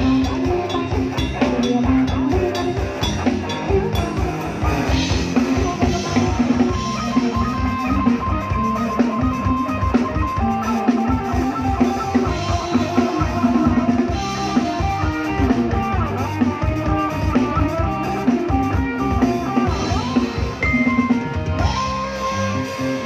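Live band playing an instrumental passage, with a drum kit keeping a steady beat under guitar and other pitched instruments.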